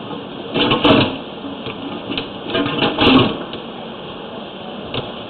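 Drain hose or cable being forced through a small drain line with a P-trap, rattling and scraping against the pipe in bursts about a second in and again about three seconds in.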